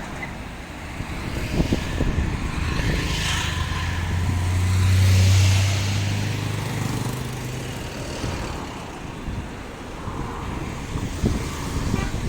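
A vehicle engine's low, steady hum swells and fades over about five seconds as it passes, over steady wind noise.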